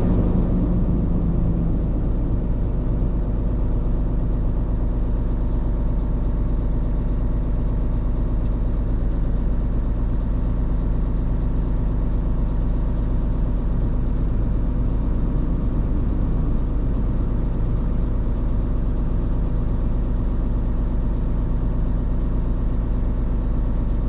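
Heavy truck's diesel engine running steadily with road noise: a constant low drone that does not rise or fall.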